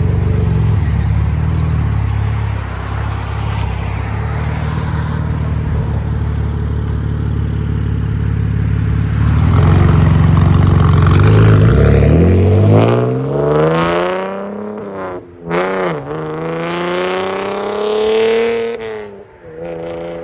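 Chevy Camaro 3.6L V6 with an X-pipe and Borla ATAK axle-back exhaust, running steadily at low revs. About twelve seconds in it is revved up twice, the pitch rising and falling each time, then it settles back to a steady idle near the end.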